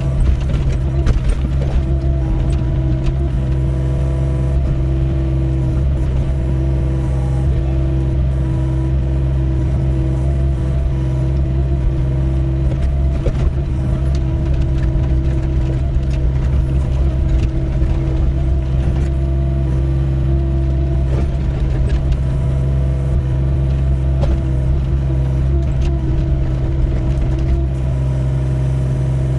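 Doosan 55W wheeled excavator's diesel engine running steadily under load while it digs, with scattered knocks and scrapes throughout, typical of a bucket working rocky ground.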